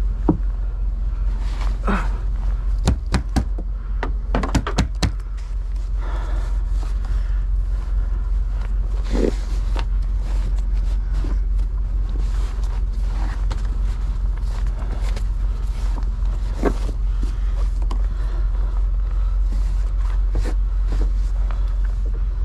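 Steady low rumble with scattered knocks and thuds as snow is cleared off the top of a semi truck.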